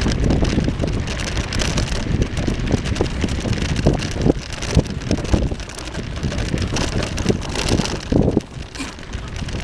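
Bicycle riding along: wind rushing over the microphone with the rolling and rattling of the bike, full of small clicks and knocks.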